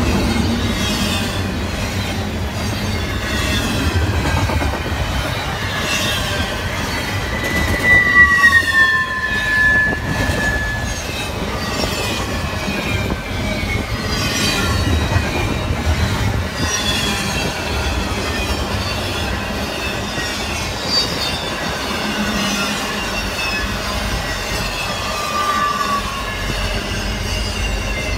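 Double-stack intermodal freight train passing at speed, a steady rumble of steel wheels on rail. About eight seconds in a wheel squeal rings out for two seconds, dropping slightly in pitch, and a shorter, fainter squeal comes near the end.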